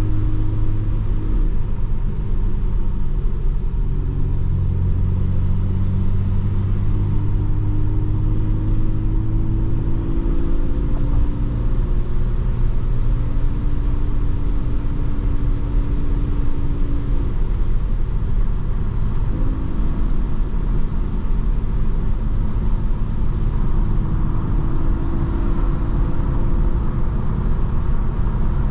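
Mercedes-AMG C43's engine and exhaust running at steady cruise over a constant road rumble. The engine note holds level for stretches and shifts in pitch a few times as the revs change.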